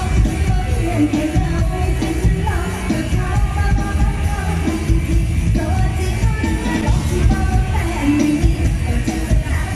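Live mor lam band playing loudly, amplified, with a female singer's voice over a heavy bass and a steady beat.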